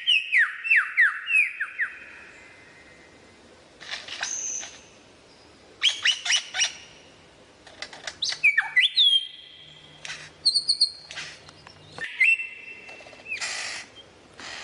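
Lyrebird singing a varied mimicry sequence. It opens with a quick run of falling whistled notes, then gives separate rising and falling whistles, short clicks and a couple of harsh, noisy bursts.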